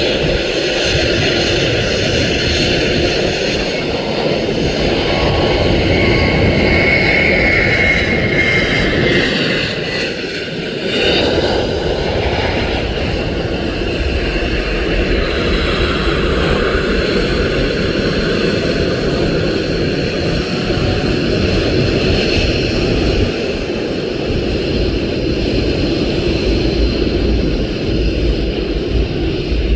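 Boeing 737 jet airliner engines running loudly at close range, a continuous noise with a high whine a few seconds in and a brief dip about a third of the way through.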